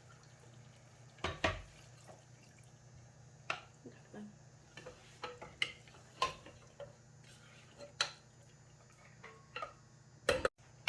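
A little water poured into a pot of browned camel meat, with scattered clinks and knocks against the pot.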